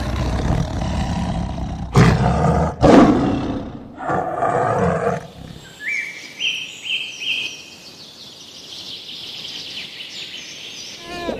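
A large wild animal roaring several times, loud and rough. About halfway through the roars stop, leaving quieter high-pitched calls and hiss.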